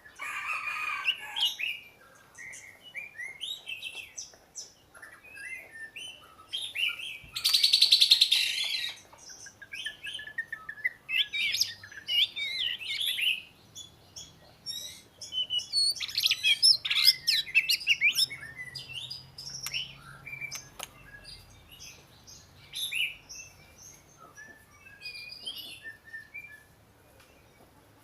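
Oriental magpie-robin singing a varied run of whistled and warbled phrases, with a loud harsh, buzzy rasp about eight seconds in.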